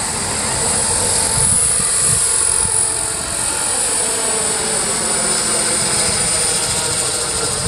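Turbine-powered RC SA-319 Alouette III scale model helicopter running: a steady high turbine whine over a fast rotor chop, with a lower tone sliding down in pitch around the middle.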